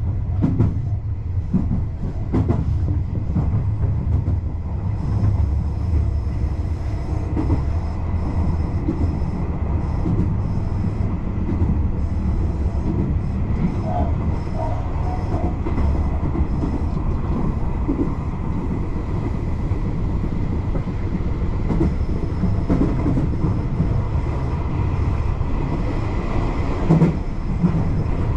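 Electric commuter train running at speed, heard from inside the front car behind the driver's cab: a steady low rumble of wheels on rail, with scattered knocks and a faint steady high tone.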